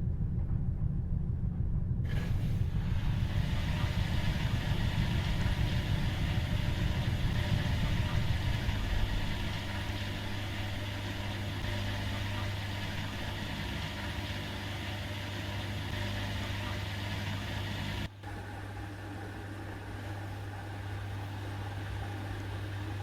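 Washing machine running: a heavy low rumble that eases about nine seconds in to a steady low hum. A hiss joins about two seconds in, and the sound drops out for a moment near the end.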